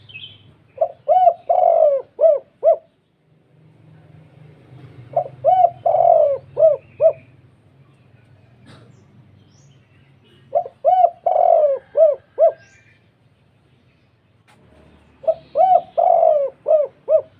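Spotted dove (tekukur) cooing its song in a deep, full voice, four times over: each phrase is five or six notes about two seconds long. It is a calling song of the kind used to rouse rival spotted doves into answering.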